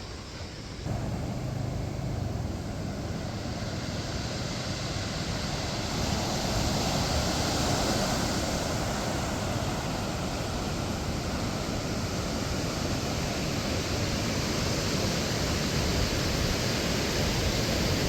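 Steady rush of moving water, a little louder from about six seconds in.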